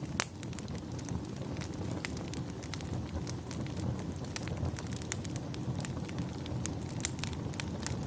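Wood fire crackling in a fireplace, with frequent irregular sharp pops and snaps over a low steady rumble.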